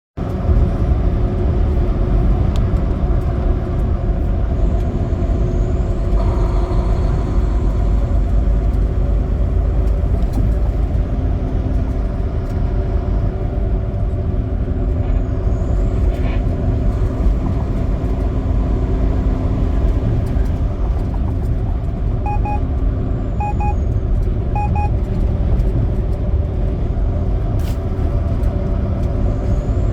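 Semi truck running on the road: a steady engine and road drone. About two-thirds of the way through come three short double beeps.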